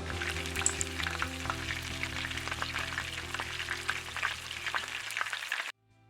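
Panko-crumbed chicken pieces shallow-frying in hot oil in a pan: a steady crackling sizzle over background music, cutting off abruptly near the end.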